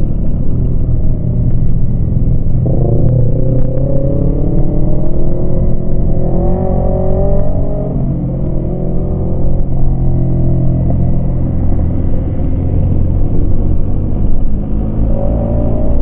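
Yamaha MT-25 parallel-twin engine pulling under way. It revs up with a rising pitch from about three seconds in, breaks off sharply at a gear change about halfway, holds steady, then rises again near the end.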